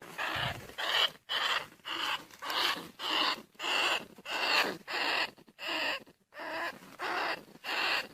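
Bandicoot rat calling: a fast, regular series of short, harsh squeals, about one and a half a second.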